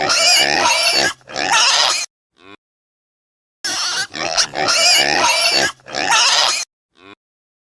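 Animal calls: a loud, harsh, wavering bout of calling that stops about two seconds in, a short faint call, then after a second of silence a second bout of the same calling lasting about three seconds, ending in another short faint call.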